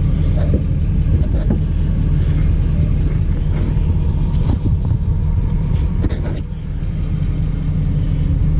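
An engine idling with a steady low rumble, with a few light metallic clicks and knocks from channel lock filter pliers being worked onto the oil filter.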